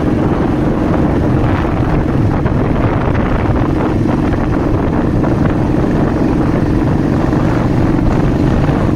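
Royal Enfield motorcycle engine running at a steady pace while riding, with wind rushing over the microphone.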